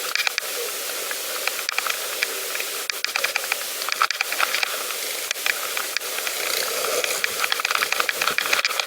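Pedal bicycle rolling along a path: a steady hiss with many small, irregular crackles.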